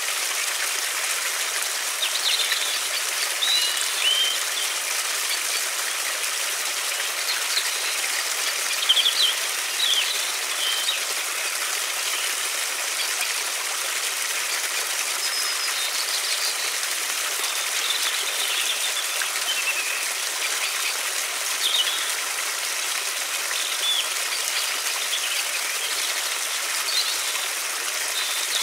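River water flowing steadily, with small birds chirping now and then over it.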